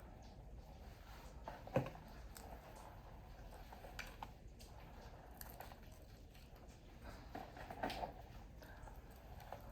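Quiet room tone with a few faint, short clicks and knocks scattered through it, the sharpest about two seconds in.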